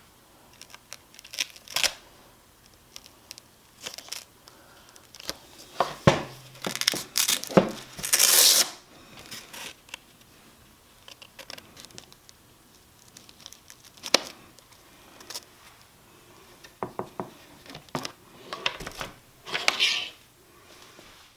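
Handling noises as a sanding disc is fitted to an orbital sander's pad: scattered clicks and short tearing, crinkling rasps, the longest about eight seconds in and another near the end. The sander's motor is not running.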